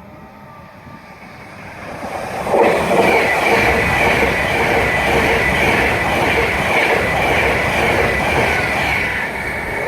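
A train passing through at speed: the sound swells about two seconds in, then holds a loud, steady rush of wheels on rail with a high whine running through it.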